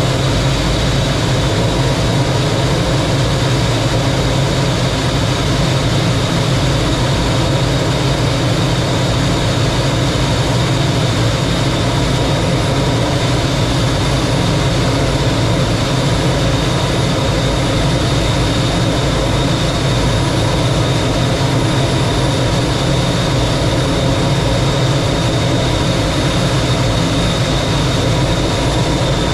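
Lockheed T-33 jet trainer in flight, heard from inside the cockpit: a steady, unchanging rush and rumble of jet engine and airflow noise, with a thin high whine running through it.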